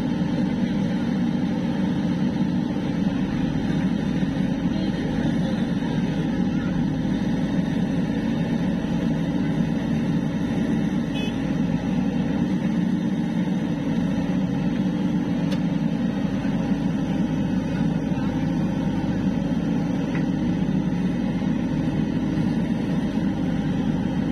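An engine running steadily at an even speed, a low continuous drone.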